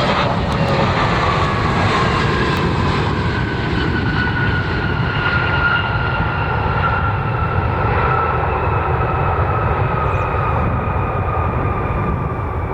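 Jet airliner's engines passing close, a loud steady rumble under a whine that slowly falls in pitch.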